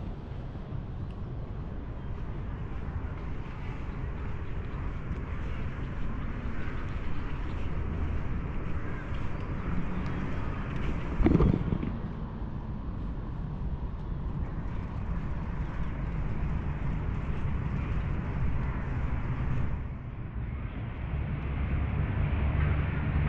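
Steady city traffic rumble, with a brief louder sound about eleven seconds in.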